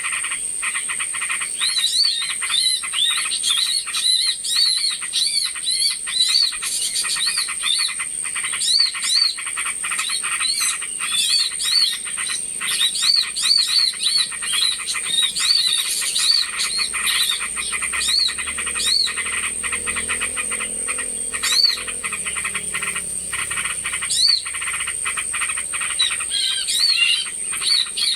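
Bird-lure recording of small birds calling: many short, arched chirps repeated over a dense, rapid chatter, with a steady high whine behind them.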